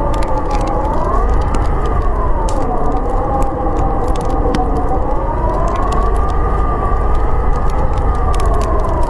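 Howling blizzard wind, its pitch slowly rising and falling over a deep rumble, with the scattered sharp crackles of a wood fire.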